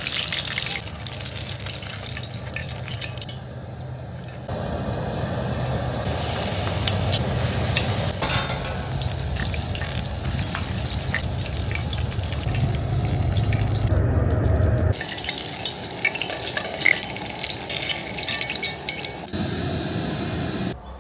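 Trout and chips frying in hot oil, a steady sizzle, in several short shots that change abruptly.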